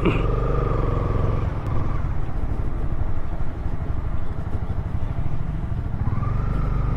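Motorcycle engine running steadily under way. A higher whine rises and holds for a second or two at the start and again near the end.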